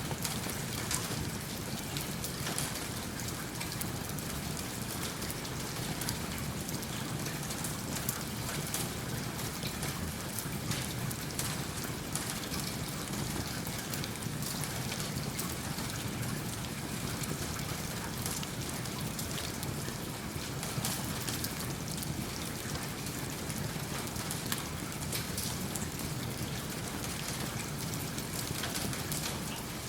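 Steady rain falling, mixed with a wood fire crackling in a fireplace, giving many small sharp ticks over the even hiss of the rain.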